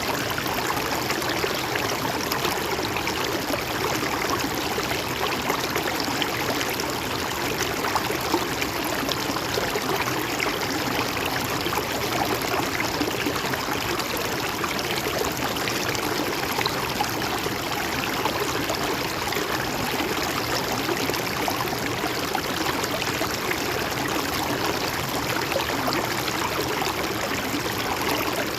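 A river or stream flowing and babbling steadily, an even rush of water with no let-up.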